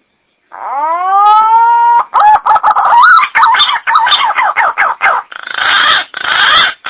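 Green pigeon (punai) calling: a rising whistle, then a quick run of wavering, warbling notes, ending in a few rough, raspy notes.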